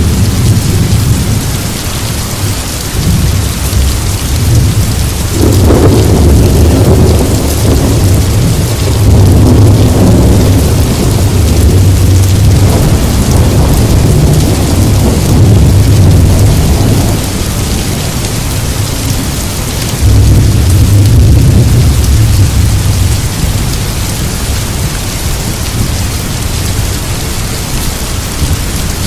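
Heavy rain falling steadily with a hiss, under a rolling rumble of thunder that swells and fades several times.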